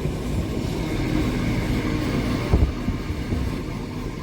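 Passenger train carriage rolling along the rails: a steady low rumble of wheels and running gear, with a single thump about two and a half seconds in.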